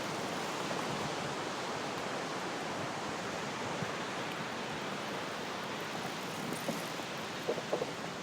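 Steady, even rushing noise of wind and ocean surf, with a few faint clicks near the end.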